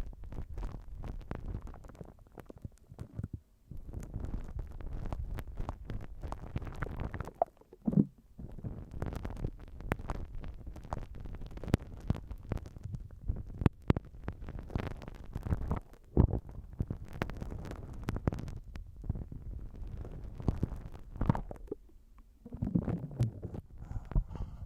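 Slime squished and kneaded directly on a binaural microphone, with a dense stream of small sticky pops and clicks and a few short pauses.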